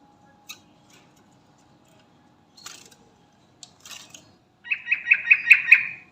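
Yellow-vented bulbul (trucukan) calling: a few faint short chirps, then near the end a quick run of about eight bright notes, roughly six a second.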